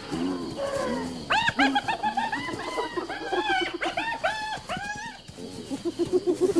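A tumult of animal calls during a predator attack: several animals yelping over one another in quick, short rise-and-fall cries, with a lower grumbling beneath.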